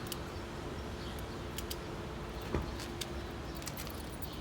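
Scattered light clicks and one louder knock about halfway through, from hand tools working the motorcycle's handlebar clamp bolts loose, over a steady background hum.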